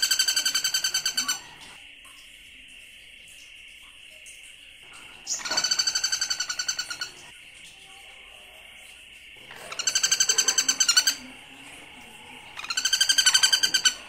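A bird giving harsh, rapid chattering calls in four bouts of about a second and a half each, with a steady high buzz underneath.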